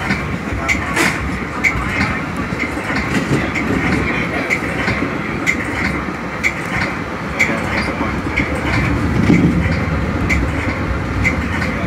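A Metra commuter train heard from inside its cab car while moving: a steady rumble of wheels on rails, with light clicks repeating at an even pace.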